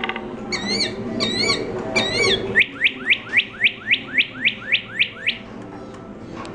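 Recorded bird calls: three short warbling chirps, then a quick run of about eleven whistled notes, each sliding down in pitch, about four a second.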